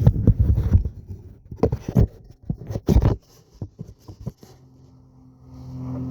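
Irregular knocks and scrapes, then a steady low engine hum that starts about four and a half seconds in and grows louder.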